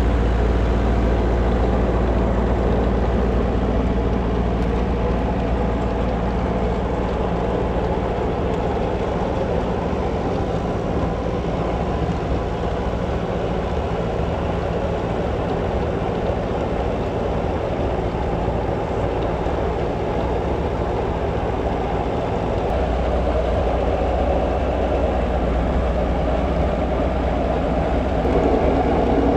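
Tractor engine running steadily under work while clearing snow, its deep note weakening through the middle and strengthening again about two-thirds of the way through as the load changes.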